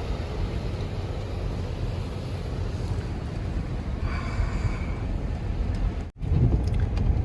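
Car driving on a snowy road, heard from inside the cabin: a steady low rumble of engine and tyres. It cuts out for an instant about six seconds in.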